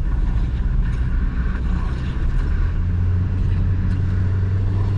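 Porsche Macan's engine running under way with tyre and road noise, a steady low drone that grows louder about three seconds in.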